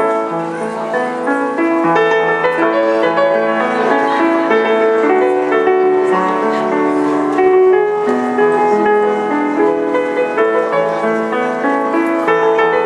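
Piano playing a flowing melody over chords, with note attacks that fade slowly.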